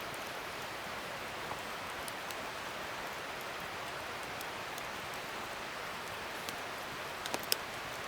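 Campfire burning with a steady crackling hiss and a few sharp pops, three of them close together near the end.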